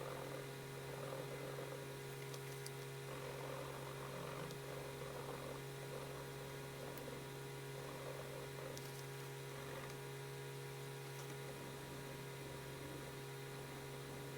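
Pencil colouring on paper: soft, uneven scratching strokes, fading toward the end, over a steady low electrical hum.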